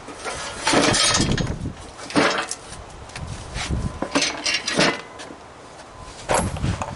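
Metal parts of a DeWalt air compressor clanking and clattering during teardown: a long rattling clatter about a second in, then single knocks and clanks, with another loud clank near the end.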